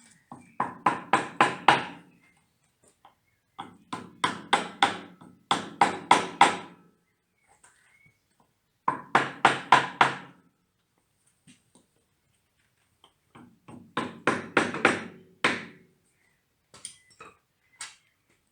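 Hammer blows on metal, coming in quick bursts of about four to six ringing strikes with short pauses between, and a few single strikes near the end. They are striking the Fordson Dexta's seized, rusted water pump to work it free.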